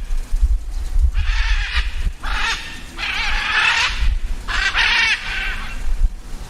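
Birds giving loud, harsh, rapidly wavering calls in three bouts, the longest about a second and a half, over a low rumble.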